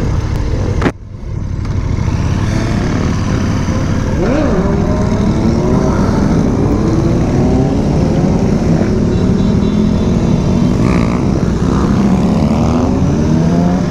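KTM Super Duke's V-twin engine pulling away from a stop, its revs rising and falling through the gears. The sound briefly drops out about a second in.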